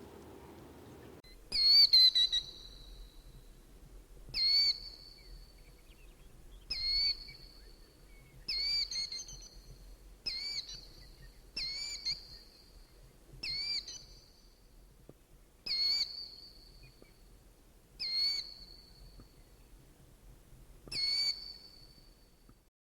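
A bird calling repeatedly: about ten short, high, identical calls, one every two seconds or so, over faint background noise.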